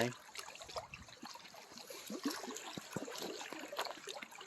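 Lake water lapping against a rocky shoreline, with small irregular splashes and gurgles.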